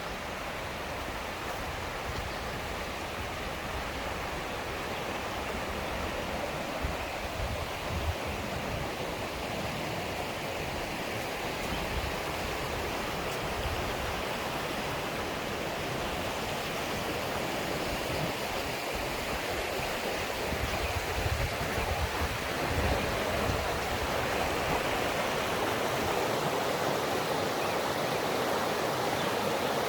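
Bistrica mountain stream rushing over rocks, a steady flow of running water that grows slightly louder over the second half.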